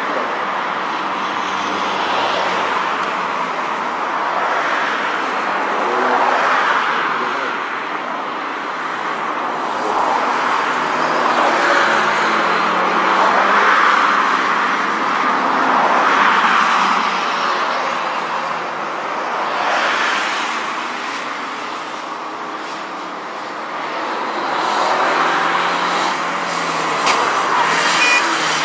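Honda T360's small DOHC four-cylinder engine running through a gymkhana course, its sound swelling and easing every two to three seconds as the driver accelerates and lifts between turns.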